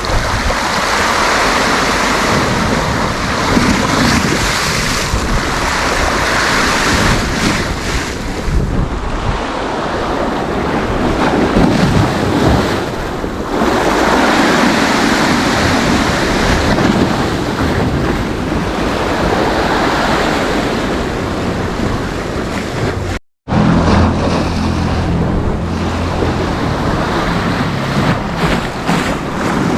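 Sea surf breaking and washing in continuous swells on the shore, with wind buffeting the microphone. The sound cuts out completely for a split second about three-quarters of the way through.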